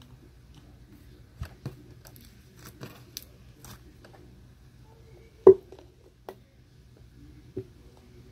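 Clicks and taps from handling a plastic bottle of clear glue while trying to get the glue out, with one louder knock about five and a half seconds in.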